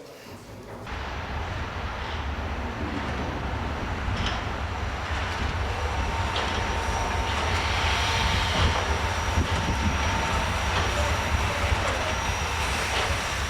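Steam train running past on the rails: a low rumble of wheels and running gear sets in about a second in and grows to its loudest midway, with a thin steady squeal over it.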